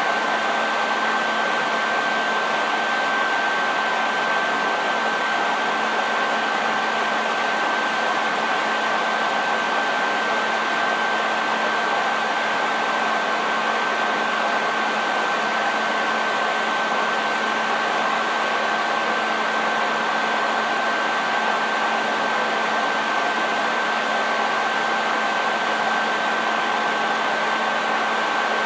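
Hair dryer running steadily: an even rush of blown air with a constant high whine from the motor and fan, and a low hum beneath.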